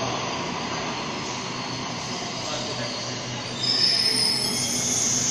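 Sydney Trains double-deck electric train running slowly along an underground platform and braking to a stop, with a steady rumble of wheels on rail. A high-pitched squeal starts about three and a half seconds in and grows louder as it halts.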